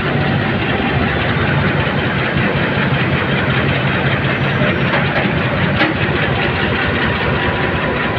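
Steady noise of a diesel passenger train: a constant low engine hum under a dense, even wash of running noise, with one faint click about six seconds in.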